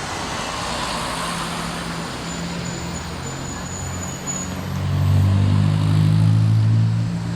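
A motor vehicle's engine running close by, a low steady hum that grows louder about five seconds in and eases off near the end, over general outdoor background noise.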